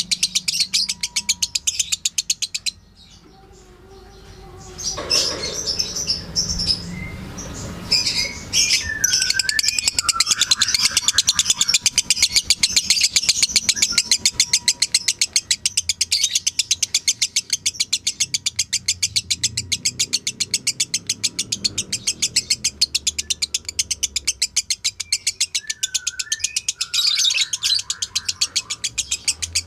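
Lovebird 'ngekek' song: a long, very fast, even high-pitched chatter. It breaks off for about two seconds a few seconds in, then gives a few scattered chirps and whistles, and runs on unbroken from about ten seconds in.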